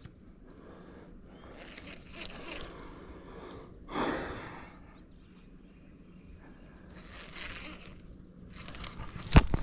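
Quiet outdoor lakeside ambience with a steady high insect-like tone. A brief rushing whoosh comes about four seconds in, and one sharp knock near the end.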